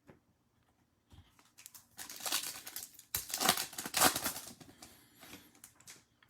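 Crinkling and rustling of plastic trading-card packaging being handled, in a quick run of rustles that starts about a second in, is loudest in the middle and fades near the end.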